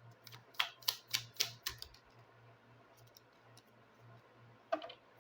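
Playing cards of a Gypsy (Lenormand) fortune-telling deck being handled and laid on a table: a quick run of about five sharp taps in the first two seconds, then a few more near the end.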